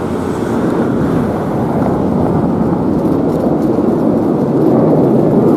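Fire apparatus engine and road noise: a steady heavy-vehicle rumble that grows slightly louder, with no siren.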